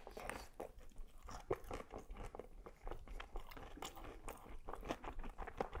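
A person biting into and chewing a falafel waffle topped with lamb and cheese: a bite at the start, then irregular small clicks and crunches of chewing.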